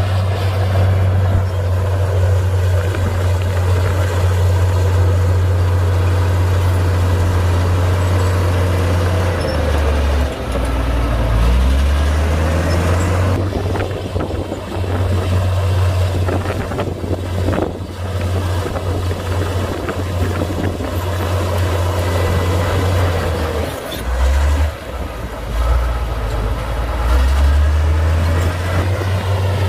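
Komatsu D58P bulldozer's diesel engine running hard. Its low drone sags in pitch twice, around a third of the way in and again near three-quarters, then picks back up as the load comes and goes.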